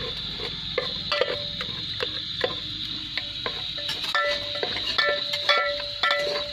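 Onions frying in oil in a pan with a steady sizzle, while a metal spoon stirs and scrapes, knocking and clinking against the pan many times, more often in the second half.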